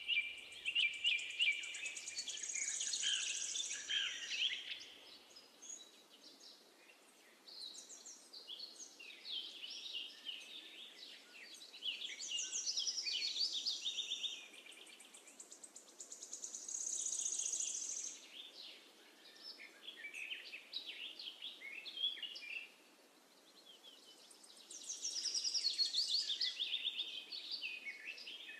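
Songbirds chirping and trilling in phrases a few seconds long, with short pauses between them.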